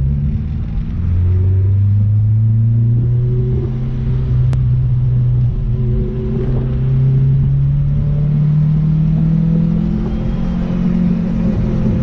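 Turbocharged LS/VTEC four-cylinder engine of a Honda Civic, heard from inside the cabin while driving, its note climbing slowly and steadily under acceleration.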